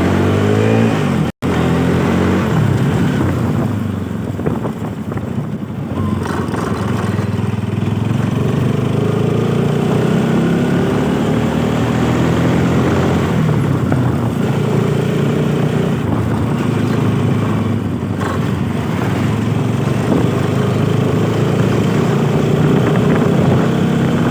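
Motorcycle engine running on the move, its pitch rising and falling with throttle and gear changes. The audio cuts out completely for an instant about a second and a half in.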